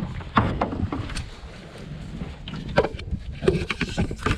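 Handling noise from a camera being passed and held: irregular knocks, rubs and scrapes against the microphone over a low rumble.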